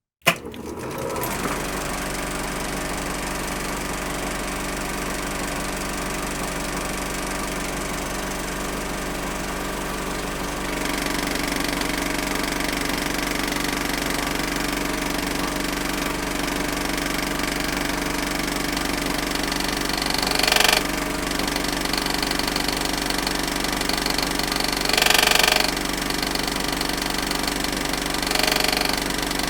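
Film projector switched on with a sharp click and then running steadily, its motor and film mechanism clattering. The run gets a little louder about a third of the way in, with short brighter surges of whirr about two thirds in, a little later, and again near the end.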